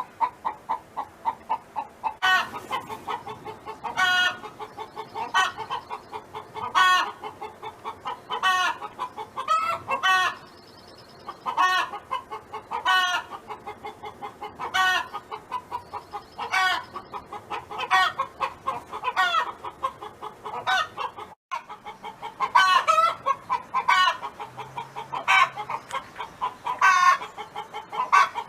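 A domestic hen clucking over and over. Loud calls come about every second and a half, with quick softer clucks between them.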